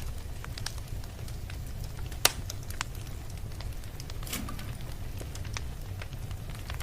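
Wood fire crackling: irregular small snaps and ticks over a steady low rumble, with one sharp, loud pop a little over two seconds in.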